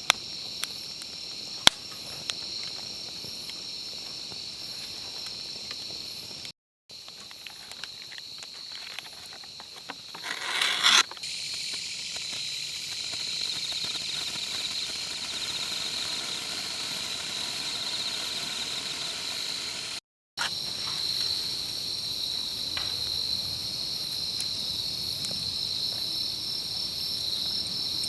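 Insects chirring steadily in a high, continuous trill, with a few sharp clicks near the start and a brief louder rush of noise about ten seconds in. The sound cuts out abruptly twice.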